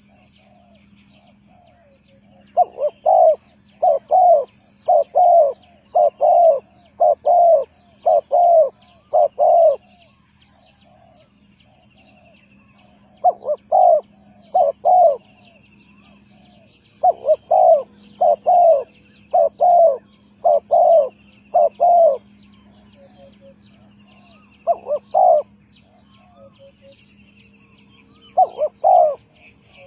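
Spotted dove cooing in quick paired notes repeated about once a second, in several runs: a long run from about 2 to 10 seconds in, then shorter runs. Faint chirps of other small birds and a steady low hum lie underneath.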